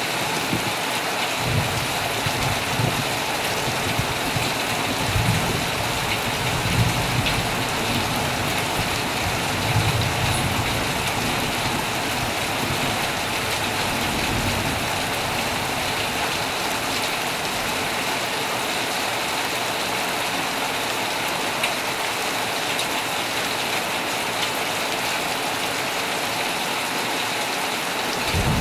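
Heavy rain falling steadily on a tent, a dense even hiss. Low rumbles of distant thunder come and go through roughly the first half.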